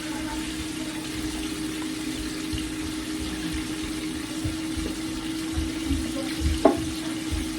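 Floured chicken pieces deep-frying in hot oil in a pan, a steady sizzle under a constant low hum, with one short knock near the end.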